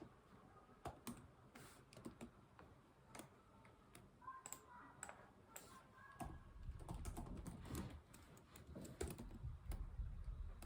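Soft computer keyboard typing, irregular keystrokes at an uneven pace. A low rumble sits underneath from about six seconds in.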